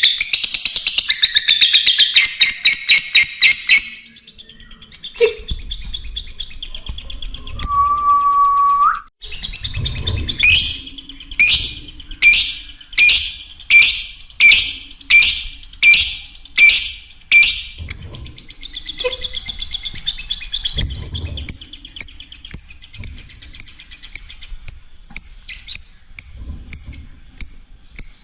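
Lovebirds calling: a dense burst of rapid high chirps, then a run of loud, evenly spaced chirps about one and a half a second, and quicker, shorter chirps near the end. A short steady whistle-like tone that rises at its end comes about a third of the way in.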